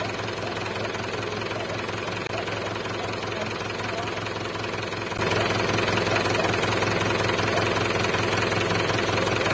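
A vehicle engine running steadily with a fast, even chugging, which gets louder a little past halfway.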